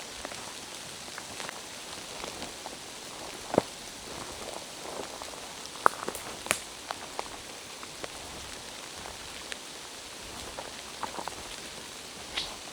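Rain falling in a forest: a steady patter with scattered louder single drops, the sharpest a few seconds in and around the middle.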